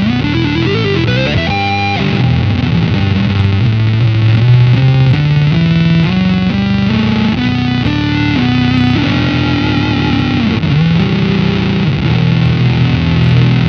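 Electric guitar through an EarthQuaker Devices Data Corrupter PLL synth pedal: the fuzzy square-wave signal blended with the subharmonic oscillator tracking three octaves below in unison. It plays a run of notes, with pitch slides near the start as the synth follows the guitar.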